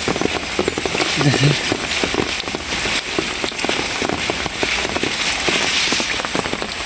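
Steady rain falling, with many close drops striking nearby surfaces.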